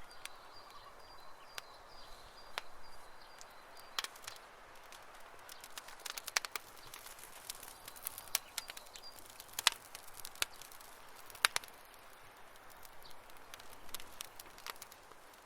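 Wood campfire crackling: irregular sharp pops and snaps of burning wood over a soft hiss, with the loudest snaps in the second half.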